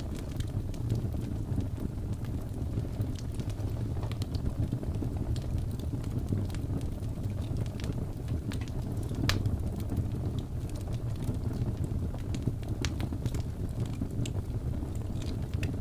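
Wood fire burning: a steady low rumble of flames with scattered sharp crackles and pops, one louder pop about nine seconds in.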